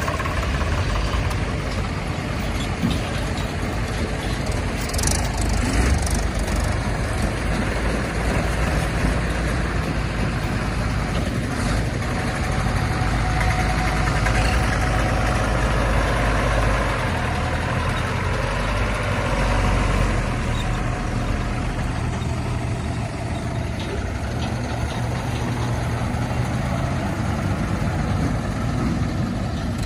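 Heavy diesel machinery running continuously, the engine drone swelling and easing a little, with a few short knocks along the way, as a backhoe loader and tractors work at loading mud.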